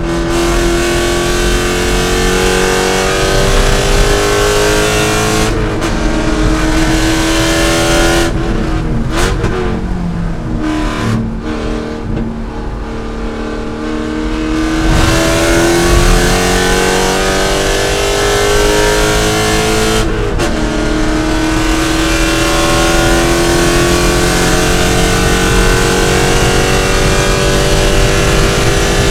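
C5 Corvette's V8 at race pace, revving up through the gears with a quick gear change about five and a half seconds in. Around ten to fifteen seconds in the revs drop and the engine goes quieter, as for braking into a corner. Then it pulls hard again, rising in pitch, with another shift about twenty seconds in.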